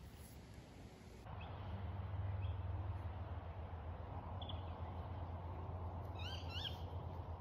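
Wild birds calling: a few short high chirps, then a quick run of rising calls near the end, over a steady low rumble that starts about a second in.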